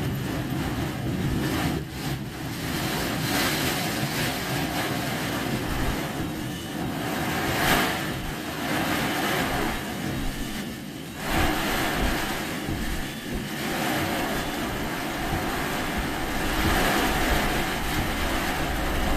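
Car driving in typhoon rain: a steady rush of heavy rain and wet-road tyre spray over the engine, swelling and easing every few seconds.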